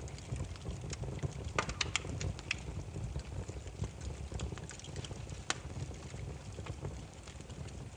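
Burning firewood crackling: a steady low rumble of the flames with irregular sharp pops and snaps from the logs, a cluster of them about a second and a half in and one loud pop midway.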